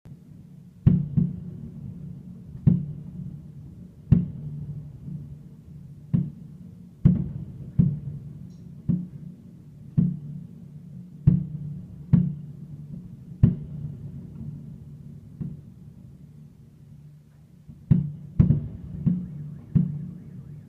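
Fireworks shells bursting overhead: a string of sharp bangs at irregular spacing, roughly one a second, each followed by a low rolling echo.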